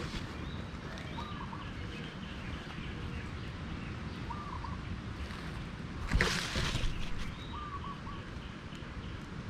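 Forest ambience with a bird repeating a short call about every three seconds over a steady background hiss. A brief rustle, the loudest sound, comes about six seconds in.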